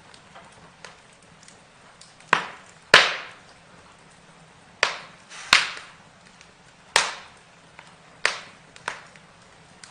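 Burning wood crackling, with sharp irregular pops and snaps, about seven loud ones among smaller ticks, over a faint steady hiss.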